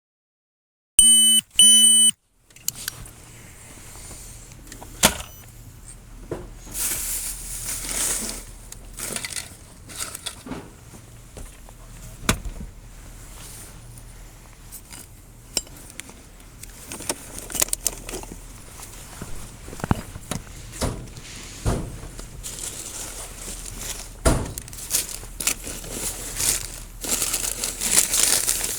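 Two short, loud electronic beeps, then close rustling and crinkling with scattered clicks and knocks, as of clothing and gear moving against a worn microphone.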